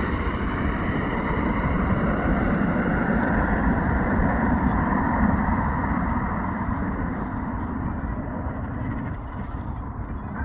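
Jet airliner's engines rumbling as it comes in to land, the sound slowly fading away.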